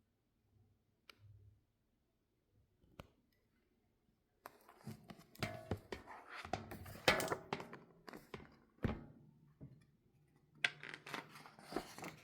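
Handling noises: irregular rustling and scraping with a few light knocks, after two faint clicks near the start.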